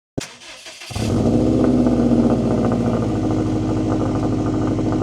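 A Subaru STI's turbocharged flat-four starting up: a click, then the engine catches about a second in, runs a little higher for a moment and settles into a steady idle rumble through the exhaust.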